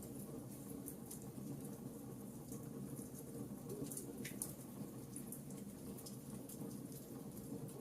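Campfire burning with a steady low rumble and scattered small, sharp crackles and pops of wood, one slightly longer crack about four seconds in.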